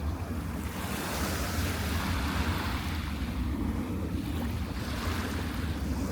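Surf breaking and washing up the beach, swelling about a second in and again near the end, over a steady low rumble of wind buffeting the microphone.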